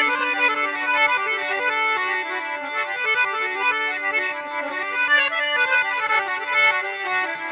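Instrumental interlude of a folk song: a harmonium plays a quick melody of short notes over a steady held drone, with no singing.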